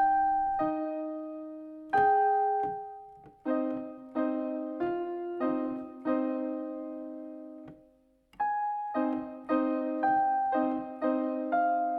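Solo piano playing slowly, single notes and soft chords each struck and left to ring away, with a brief pause about eight seconds in.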